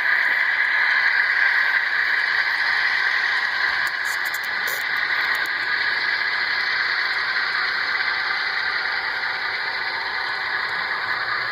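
HO scale model train rolling slowly past on the track: a steady mechanical rattle and hiss of the cars running, with a few faint clicks about four to five seconds in.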